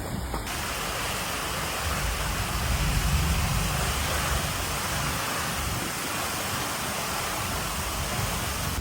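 Steady, dense rushing noise of heavy storm water, with a low rumble underneath.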